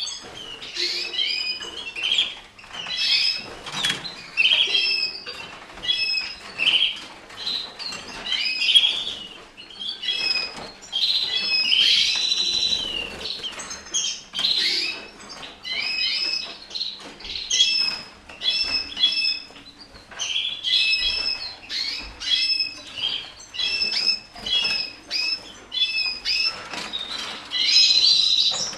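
Red factor canaries chirping and calling with short repeated notes and occasional quick trills, with wings fluttering.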